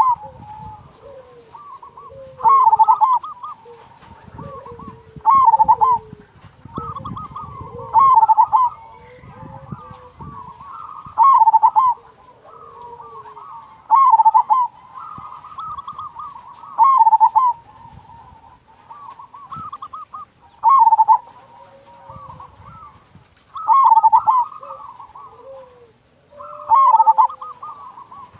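Zebra dove (perkutut) singing its cooing song, a loud call repeated about every three seconds, ten times in all. Quieter, lower notes fall between the calls.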